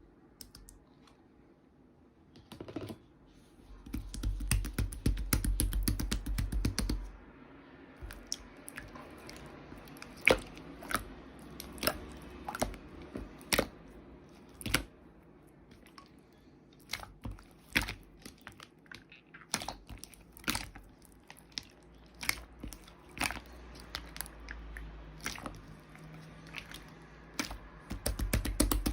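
Slime being squished and stretched by hand: a dense run of rapid wet clicking between about four and seven seconds in, then sharp separate clicks and pops, one or two a second, with another dense run near the end.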